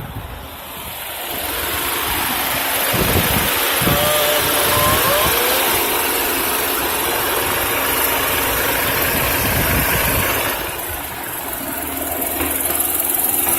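BMW 328i's turbocharged four-cylinder engine idling steadily, heard from the open engine bay, with a steady rushing noise over it. A few faint short squeaks come through about four seconds in.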